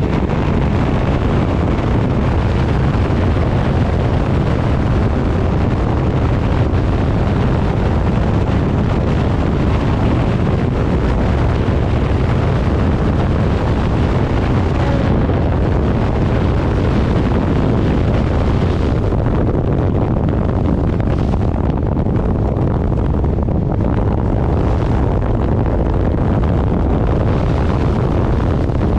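Heavy wind rushing over the microphone of a moving motorcycle, steady throughout, with the engine's low drone underneath.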